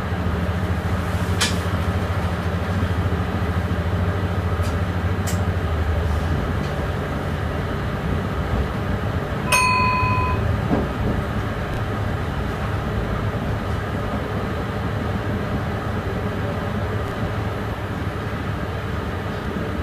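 Passenger train running, heard from the driver's cab: a steady low drone of motor and wheels on the rails. About halfway through, a short electronic beep sounds for about a second.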